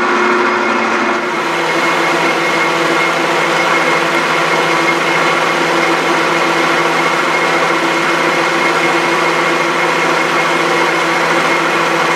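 Metal lathe taking a carbide facing cut on 3-inch bar stock, running steadily with several ringing tones over the noise of the cut: the tool is chattering. The machinist thinks the 1 horsepower motor, driving through only one V belt, is not giving the cut enough power.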